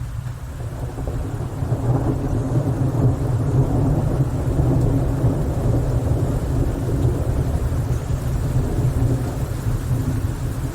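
A long roll of thunder over falling rain: a deep rumble that builds over the first two seconds and keeps rolling.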